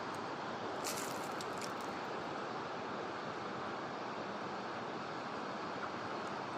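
Steady rushing noise with no pitch to it, with a few faint clicks about a second in.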